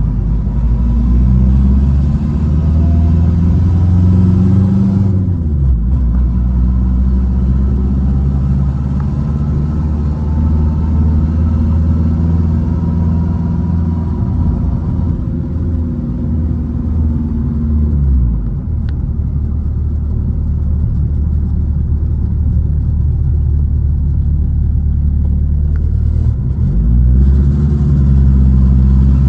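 1968 Baja's engine running under way, heard from inside the car. Its pitch climbs as it speeds up and drops away again several times, with steadier running in between.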